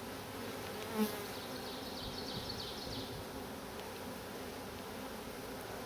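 Honeybees buzzing steadily around an open hive during a frame inspection. A brief sharp sound comes about a second in.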